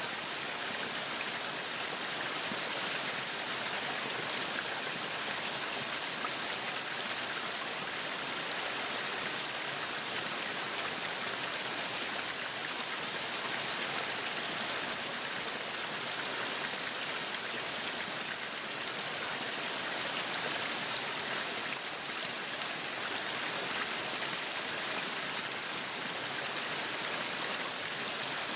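Meat sizzling on a yakiniku grill: a steady, even crackling hiss with no breaks.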